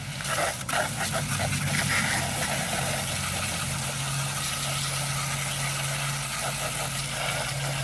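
Garden hose spraying water onto a box fan to rinse off the cleaner: a steady hiss of water that starts just after the beginning, with a few sharp spattering hits in the first second. A steady low hum runs underneath.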